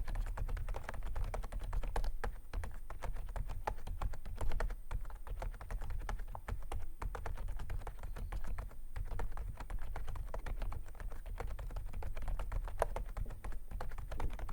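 Typing on an Aula F87 mechanical keyboard with silent Peach linear switches and a key skin fitted: a fast, continuous run of keystrokes. Under it runs steady background noise from the raised recording gain.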